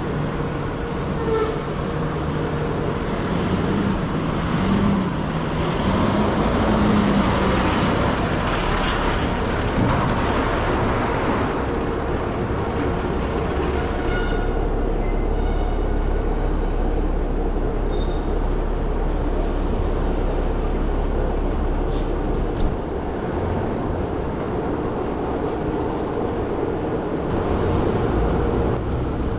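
City street traffic: a steady rumble of vehicles with a low engine drone running under it, strongest through the middle, and a few scattered clicks.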